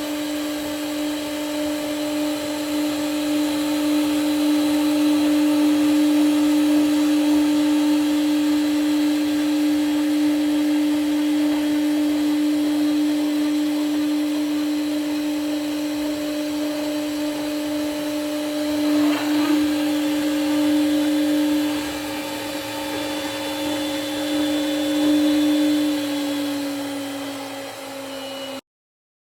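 CNC milling machine spindle running with a steady whine while cutting a chamfer. The pitch dips slightly near the end, just before the sound cuts off.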